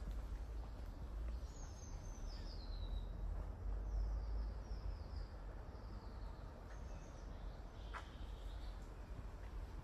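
A wild bird calling: a run of high, falling whistled notes starting about a second in, and another call near the end, over a steady low rumble. A single sharp click about eight seconds in.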